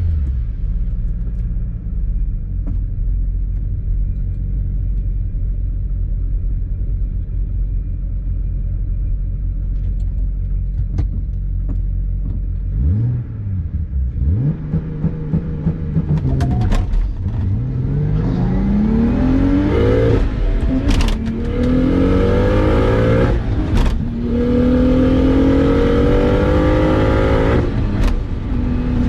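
BMW 135i's turbocharged N54 straight-six runs low and steady, is revved up and down a few times about halfway through, then pulls hard. The engine pitch climbs through three gears with a short break at each shift.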